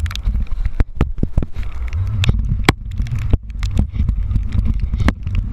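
Uneven low wind rumble on the camera microphone, broken by many sharp, irregular clicks of raindrops striking the camera housing.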